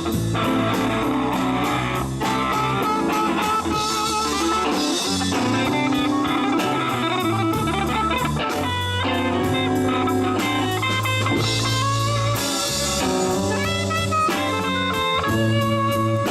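Live band playing an instrumental blues passage: electric guitar over bass guitar and a drum kit, with a steady cymbal beat.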